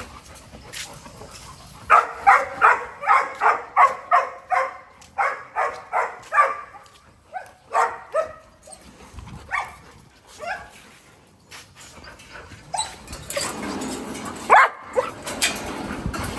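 A dog barking in a quick run of about four barks a second, then a few scattered barks. Near the end there is a stretch of noise with a sharp knock.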